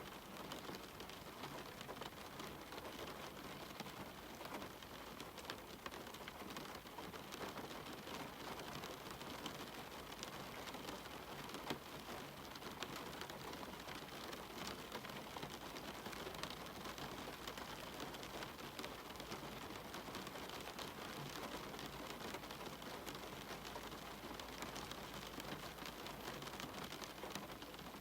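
Steady rain falling, a dense even hiss dotted with many small drop ticks.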